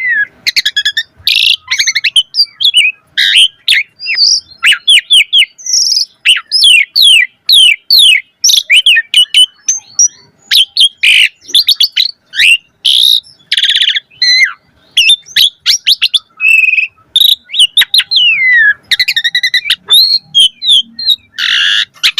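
Asian pied starling (jalak suren) singing a rapid, varied song of whistled up- and down-sweeps, short chirps and harsh scratchy notes, the full song with mimicked fill-in phrases.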